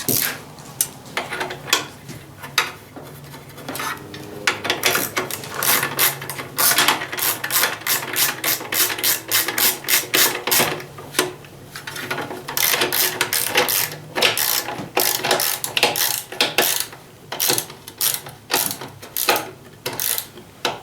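Socket ratchet clicking in rapid runs with short pauses, as bolts on the mower are turned.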